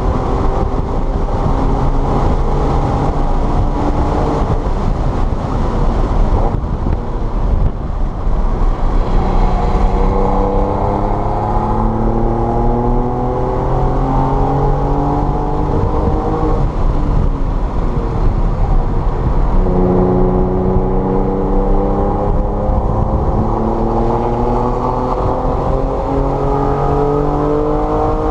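Car engine pulling hard under acceleration, its pitch climbing steadily, falling back once at a gear change, then climbing again, after a brief lift off the throttle near the start, over steady road and tyre noise.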